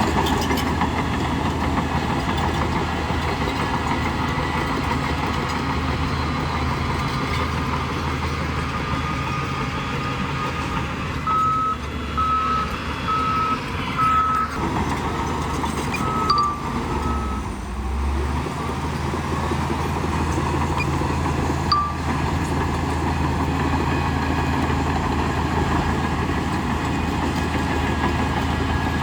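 Heavy diesel earthmoving machinery, a bulldozer, running steadily under load. Near the middle a reversing alarm beeps repeatedly for several seconds. A couple of sharp metallic clanks come later.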